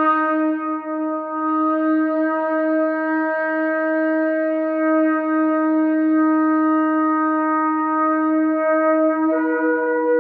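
Shofar (ram's horn) sounding one long, steady blast, its tone changing near the end.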